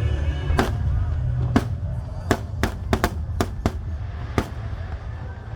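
Fireworks going off in a display: about nine sharp bangs over some four seconds, irregularly spaced and bunched close together in the middle, over a steady low rumble.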